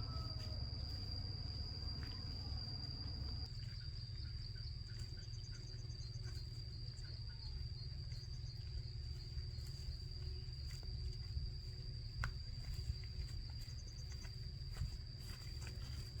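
Insects droning outdoors: one steady high-pitched tone that does not stop, over a low rumble.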